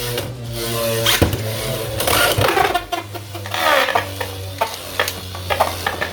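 Two Beyblade X spinning tops, Hells Scythe and Rhino Horn, whirring around a plastic stadium and clashing, with repeated sharp clacks of hits, a strong one about a second in.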